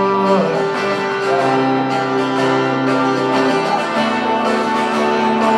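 Acoustic guitar strumming chords in a short instrumental gap between sung lines of a live song.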